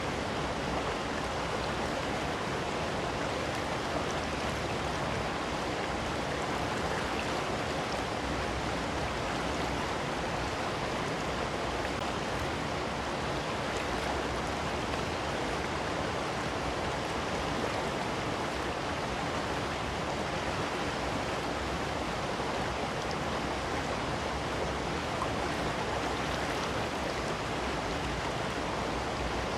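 Steady rushing of a waterfall and creek water, an even noise that holds without change.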